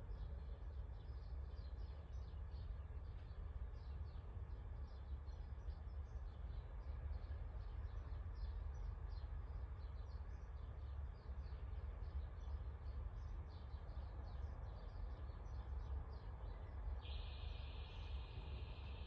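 Birdsong: many small birds chirping in quick short notes over a low steady rumble. Near the end a continuous high trill sets in.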